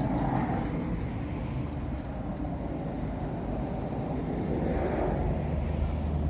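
Honda VTR1000 SP1's 90-degree V-twin engine running through aftermarket Ladybird MotoGP-style exhausts with a deep, steady rumble, swelling twice, near the start and about two-thirds through.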